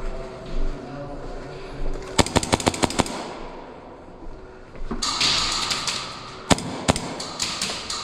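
Airsoft gun firing a rapid burst of about ten shots a little over two seconds in, followed later by two single shots.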